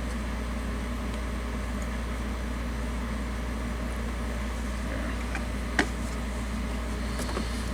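Steady low background hum with a light hiss, like a fan or air conditioning running, broken once by a single light click about six seconds in.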